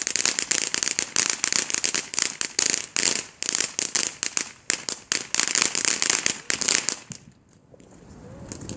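Consumer fireworks going off in a rapid, dense string of sharp bangs and crackles, which stop abruptly about seven seconds in and leave only a faint hiss.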